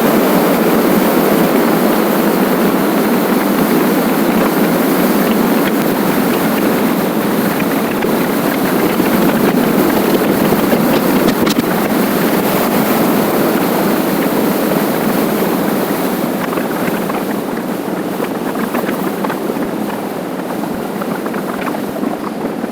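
Steady rush of wind on the microphone and road noise from a motorcycle riding at speed, easing a little near the end.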